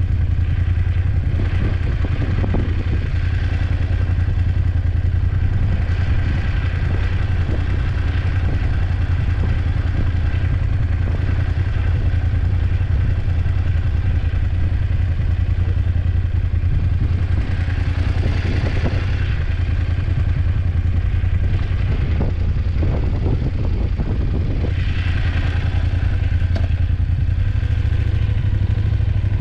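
BMW F850GS motorcycle's parallel-twin engine running at a steady, unchanging speed, with intermittent clatter over it.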